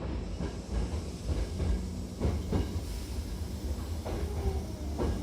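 Hankyu Takarazuka Line train running, heard inside the car: a steady low rumble with a few clunks.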